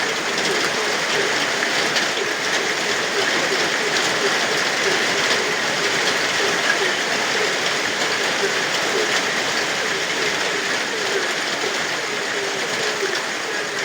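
Steady rain falling, with frogs croaking over it in short calls repeated many times.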